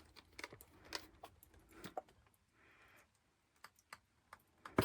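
Scattered light clicks and taps of camp cooking gear being handled, with a sharper click near the end.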